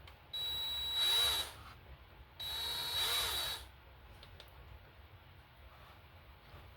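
An electric drill fitted with a reverse (left-hand) bit is run in two short bursts, about a second and a half each, drilling into a broken bolt stuck in an engine block. The motor's whine stays at an even pitch in each burst.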